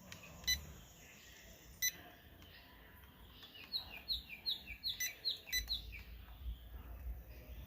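A bird calling: a quick run of about ten short chirps, each sliding down in pitch, a few a second, after a few single sharp high pips.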